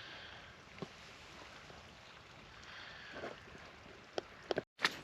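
Faint outdoor background noise with a few short clicks, and the sound cuts out completely for a moment near the end.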